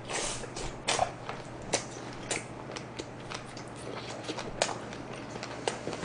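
A person chewing a mouthful of jalapeño pizza: irregular wet mouth clicks and crunches of the crust, with a few sharper snaps.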